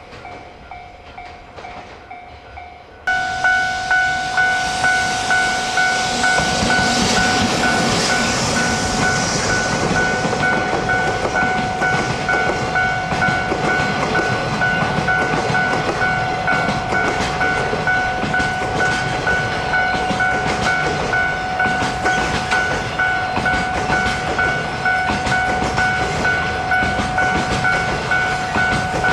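Freight train passing close by, wheels clattering over the rail joints in a steady rhythm, over a steady high tone. It comes in suddenly about three seconds in and stays loud.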